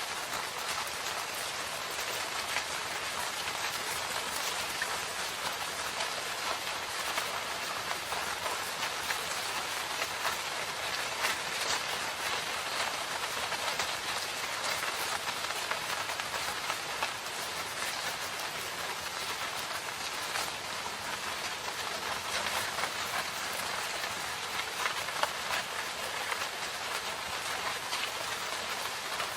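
Steady rain: an even hiss of rainfall with many separate drop hits ticking through it.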